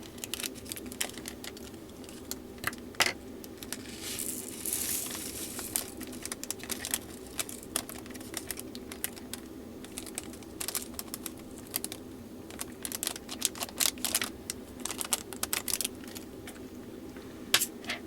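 Irregular small plastic clicks and taps with bursts of bag crinkling as diamond-painting drills are handled and packed into small plastic storage containers, over a steady low hum.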